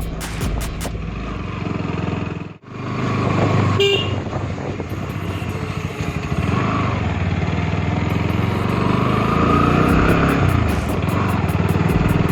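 Motorcycle engine running under way with wind noise, a short horn beep about four seconds in, and the engine revving up near the end.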